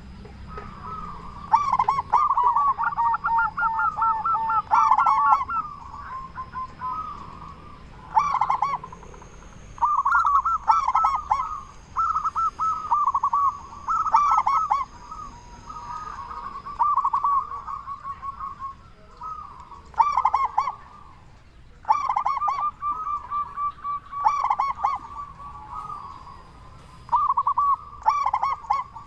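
Several zebra doves (perkutut) in full song, cooing in runs of short, quivering notes. The phrases come in bursts of a second or two with brief gaps, often overlapping as one bird answers another.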